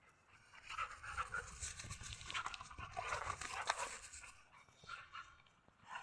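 Dogs rough-playing: quick panting and scuffling sounds for about four seconds, dying down, then a short burst again near the end.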